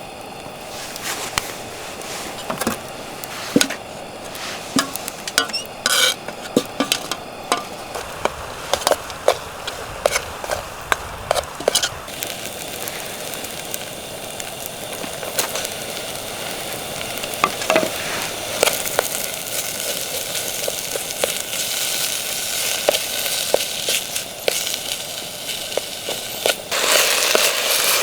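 Curry ingredients sizzling in a frying pan over a campfire while being stirred, with frequent short clicks and scrapes of the utensil against the pan. The sizzle grows louder in the second half and louder again near the end.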